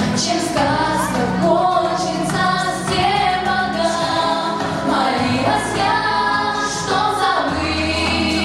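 Pop song sung by a group of female voices over an instrumental backing track.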